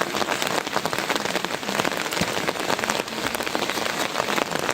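Heavy rain falling steadily, with a dense patter of drops hitting nearby surfaces.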